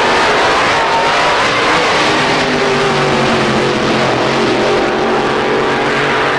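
Car engine running loud and steady.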